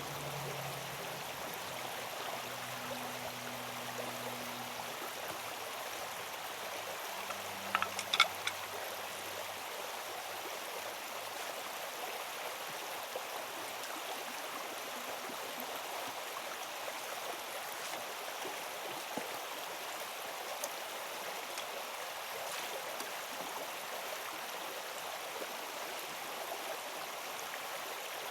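Steady rushing of flowing water, with a few sharp clicks about eight seconds in.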